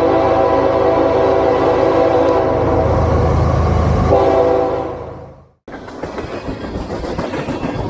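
Locomotive horn sounding a long chord of several tones, with a short break about four seconds in and one more short blast that fades out. After an abrupt cut, a train rolling past on the rails, its wheels clacking over the joints.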